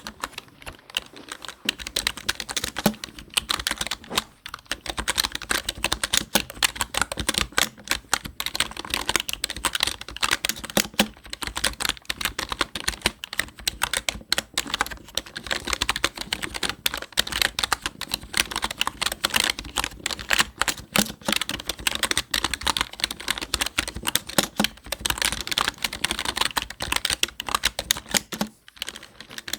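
Steady, fast typing on a computer keyboard: a dense run of key clicks several to the second, with short pauses about four seconds in and near the end.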